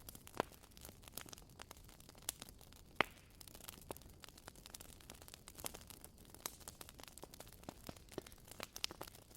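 Wood fire crackling: a soft hiss under scattered irregular pops and snaps from burning firewood, with two sharper pops about half a second and three seconds in.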